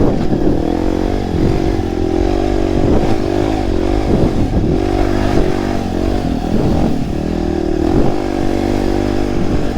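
Dirt bike engine being ridden off-road, its revs rising and falling every second or so as the throttle is worked on and off.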